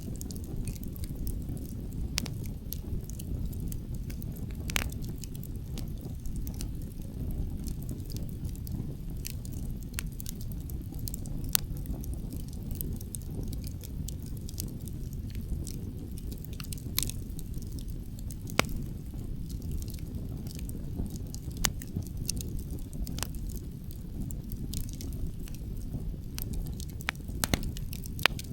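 Wood fire burning, crackling with irregular sharp pops and snaps over a steady low rumble.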